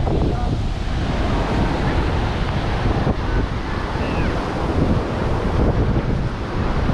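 Ocean surf washing onto the beach, with wind buffeting the microphone as a steady low rumble. Faint voices come through now and then.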